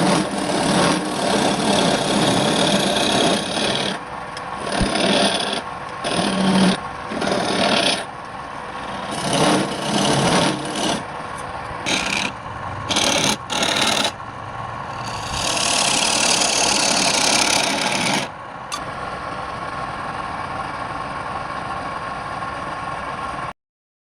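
Wood spinning on a lathe being rubbed in repeated rasping strokes over the lathe motor's steady hum. The rubbing stops about 18 seconds in, leaving the lathe running alone, and the sound cuts off abruptly near the end.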